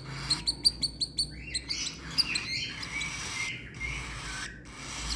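Baby cockatiel making raspy food-begging calls mixed with quick sharp chirps as it is hand-fed, the chirps coming thickest in the first couple of seconds.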